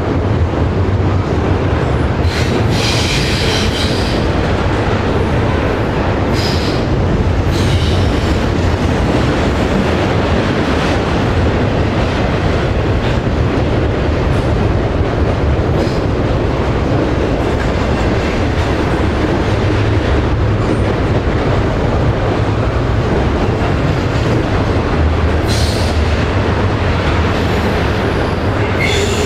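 Freight train cars rolling past: a steady loud rumble of steel wheels on rail, with short high-pitched wheel squeals about three seconds in, around seven seconds and near the end.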